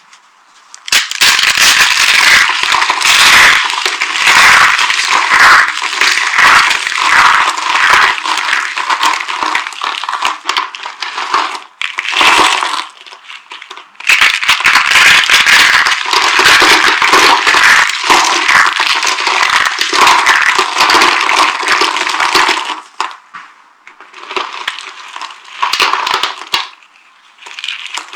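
Dry soap being crushed, a dense, loud crackling crunch in long runs, with a short break near the middle and softer, sparser crunching near the end.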